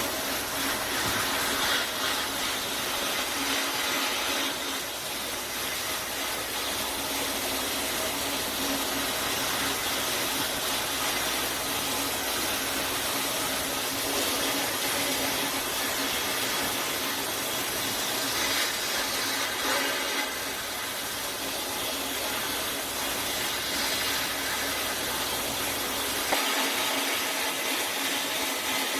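Steady rushing, hiss-like noise of a power tool working on rusted steel, with a faint steady hum underneath; the deepest part of the sound drops away near the end.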